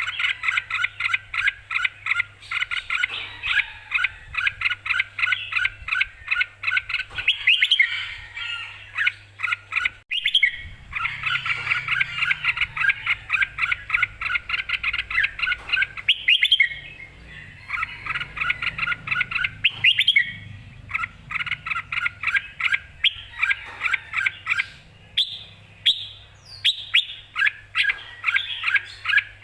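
Red-whiskered bulbul singing: fast runs of short chirping notes in bouts, broken by a few brief pauses, over a faint low hum.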